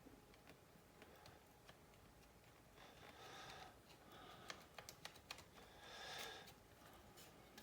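Faint small clicks and short soft scrapes of a pry tool working at the plastic housing of a Samsung Galaxy Note 3, where one corner is still holding the part down.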